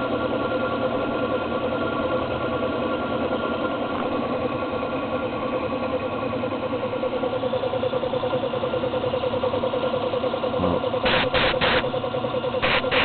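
Homemade air compressor, a 1970s Mopar car air-conditioning compressor belt-driven by an old 1 hp electric motor, running steadily and pumping air into its tank with a fast rhythmic pulse. Several short, sharp bursts of sound come in near the end.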